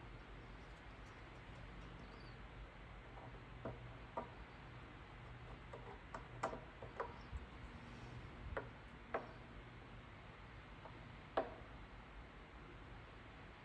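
Light scattered clicks and scrapes as a hot tool works and melts down the plastic of a body panel, over a low steady hum.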